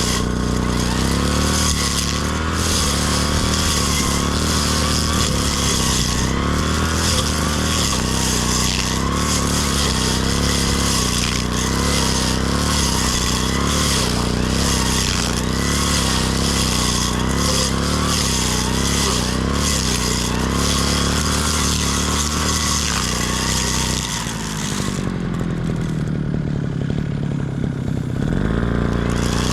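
Brush cutter engine running at cutting speed, its pitch wavering steadily. About 24 s in the throttle eases off and the engine note falls toward idle, then it revs back up near the end.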